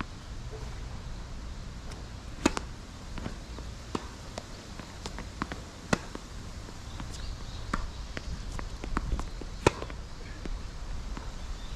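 Tennis rally on a hard court: sharp pops of racket strings hitting the ball, the loudest three about three and a half seconds apart, with softer ball bounces and hits between, over a low rumble of wind on the microphone.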